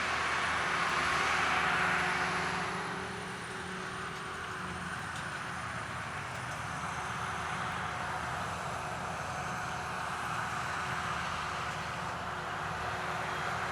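Sakpattana KM-D#1 rice combine harvester working a paddy field: a steady engine drone under a rushing noise of cutting and threshing, with a thin high whine over it. The rush is louder for the first two seconds or so, then eases and holds steady.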